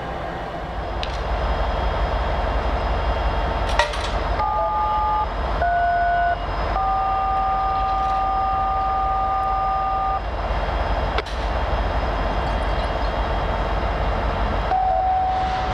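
Touch-tone (DTMF) dialing heard over a railroad scanner radio: two brief dual-tone beeps, then one held for about three and a half seconds, and another starting near the end. Underneath is a steady low rumble of idling diesel locomotives.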